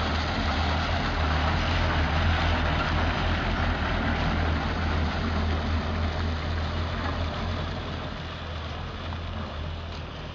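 Old medium cargo truck loaded high with sacks driving past on a waterlogged mud street, its engine giving a steady low rumble. The sound fades over the last few seconds as the truck pulls away.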